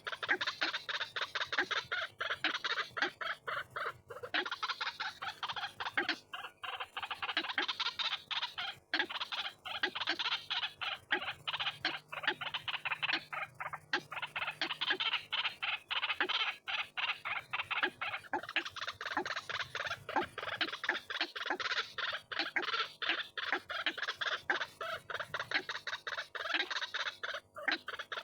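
White-breasted waterhen (ruak-ruak) lure-call recording: a dense, unbroken run of rapid, repeated harsh calls, many notes a second with only brief breaks.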